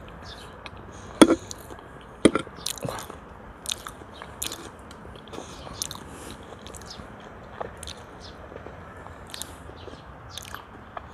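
Close-up chewing of a mouthful of food, with a run of short sharp mouth clicks. The loudest two come about one and two seconds in.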